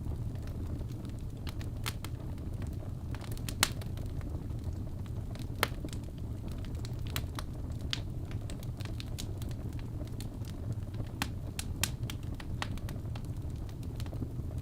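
Wood fire burning in a fireplace: a steady low rumble of the flames with irregular sharp crackles and pops, two of them louder, about three and a half and five and a half seconds in.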